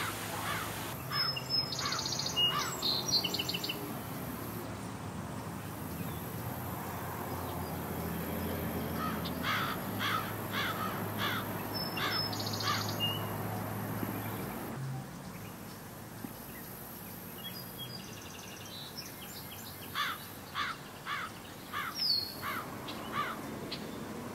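Garden songbirds calling: several bouts of short, falling chirps repeated in quick series, with bursts of high, quick twittering among them, over a steady low background hum.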